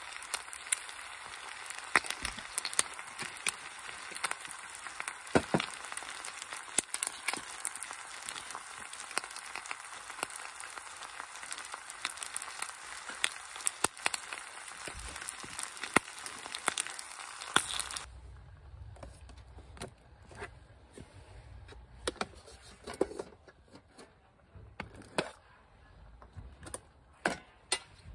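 Bacon and eggs sizzling in a skillet, a steady hiss full of small crackling pops. The sizzle stops abruptly about two-thirds of the way in, leaving only scattered light knocks and clicks of cookware being handled.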